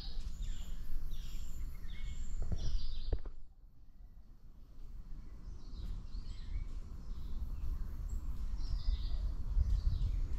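Jungle birds calling in a run of short, falling notes, about two a second. The calls break off briefly a little after three seconds in, then resume, all over a low steady rumble.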